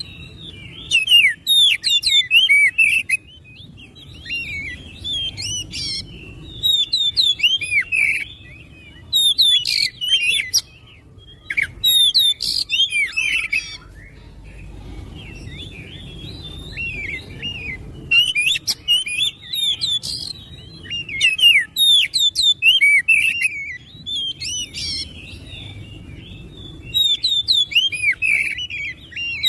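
Oriental magpie-robin (kacer) singing: loud phrases of rapid whistled, sweeping notes, each lasting one to three seconds with short pauses between, and a quieter spell about halfway through.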